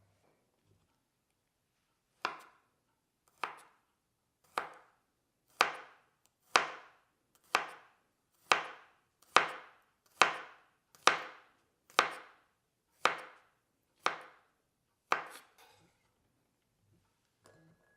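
Kitchen knife chopping down onto a cutting board in single, deliberate strokes, about fourteen of them at roughly one a second. They start about two seconds in and stop a few seconds before the end.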